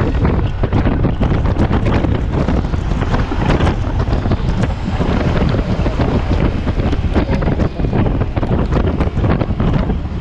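Loud, steady wind rushing over the microphone of a Yamaha T-Max 530 maxi-scooter riding at speed in heavy rain, with constant small crackles of rain spatter.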